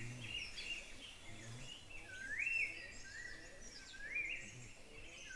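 Faint birdsong: a bird repeats a short whistled note that rises and then levels off, about once a second, over a soft background hiss.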